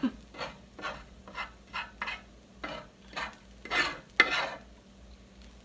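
A metal utensil scraping and stirring against a pan in about a dozen short, irregular strokes.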